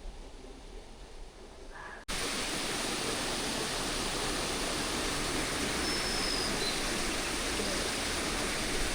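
Steady rushing-water hiss, like a stream or small waterfall, that cuts in suddenly about two seconds in after a quieter stretch.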